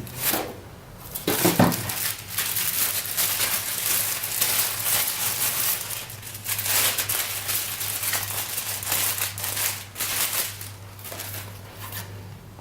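Crinkling and rustling of packaging as model kit parts are handled, continuous for most of the stretch, with a couple of knocks near the start.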